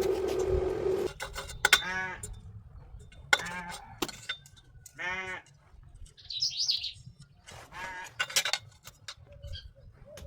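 Farm animals calling: four separate pitched calls, each about half a second long. A bird chirps briefly in between, and there are scattered sharp clicks.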